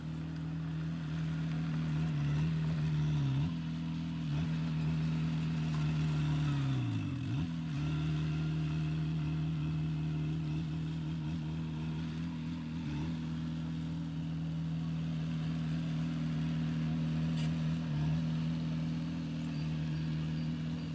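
Heavy diesel engine of earthmoving machinery running steadily. Its pitch sags briefly under load and recovers, once about three seconds in and more deeply about seven seconds in.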